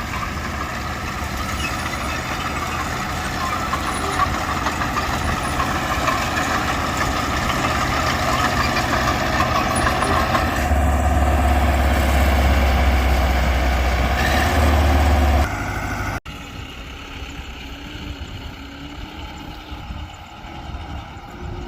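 Heavy diesel engine of earthmoving machinery working under load, growing louder and heaviest for several seconds before easing off abruptly. After a sudden cut, the engine runs more quietly.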